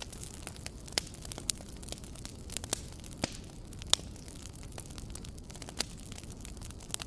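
Wood fire crackling in a fireplace: sharp pops and snaps scattered at irregular intervals over a steady low rumble of the flames.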